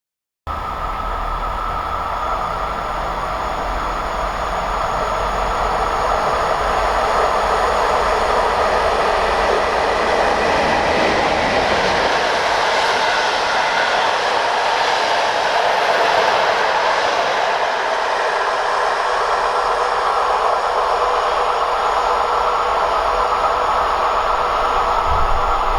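PKP class EP07 electric locomotive hauling a passenger express past on the rails: a steady rumble and rail noise that begins abruptly and swells a little partway through.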